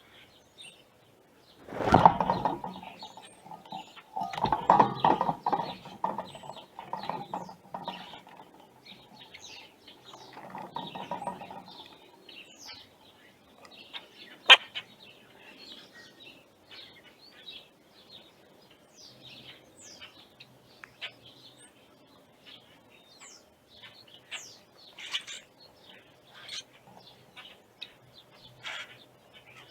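Small backyard birds chirping with many short, high calls. In the first twelve seconds there are three louder, lower bursts, and a single sharp click comes about halfway through.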